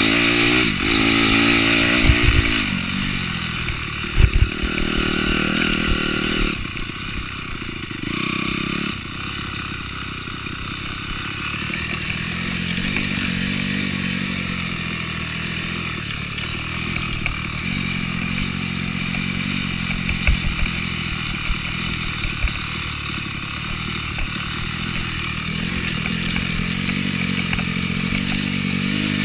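Honda CRF250R's single-cylinder four-stroke engine running under way off-road, its revs rising and falling with the throttle. A few sharp knocks sound over it, two in the first few seconds and one about two-thirds through.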